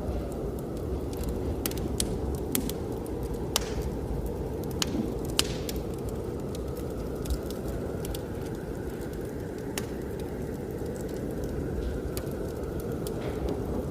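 Wood fire crackling, with sharp scattered pops over a steady low roar of blizzard wind.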